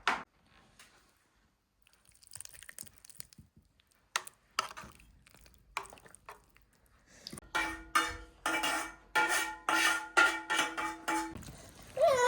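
Kitchen dishes and a metal pot clinking, with scattered knocks. In the second half comes a quick run of clinks over a steady ringing tone.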